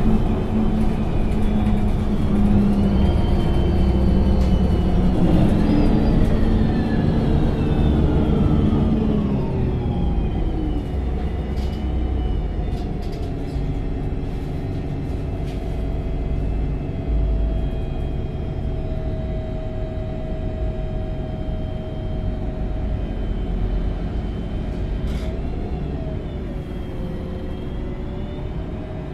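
MAN NG 273 T4 LPG-engined articulated city bus running, its engine and drivetrain giving a rumble with whining tones. The whine rises over the first few seconds, then falls away over a few seconds before the bus settles into a quieter, steady run with one high whine that wavers near the end.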